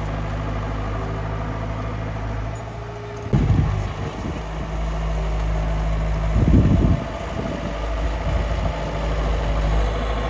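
Engine of a miniature construction machine idling steadily, with two loud rough bursts about three and six and a half seconds in.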